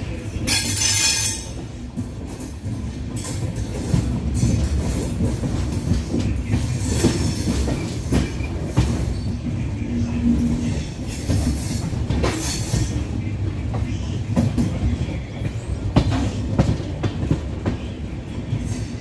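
Indian Railways train running, heard from inside a carriage at an open window: a steady low rumble of wheels on track, broken by irregular clicks and clatter as the wheels run over rail joints.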